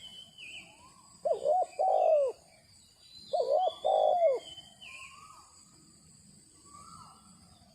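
A dove cooing twice, two phrases of quick looping notes about a second long and two seconds apart, with small birds chirping high and faint in the background.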